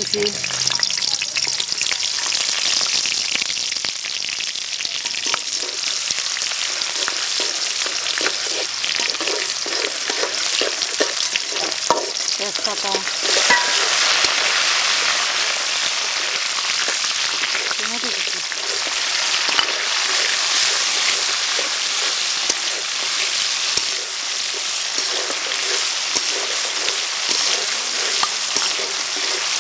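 Onions sizzling steadily as they fry in hot oil in an aluminium karahi, with a metal spatula scraping and clicking against the pan as they are stirred.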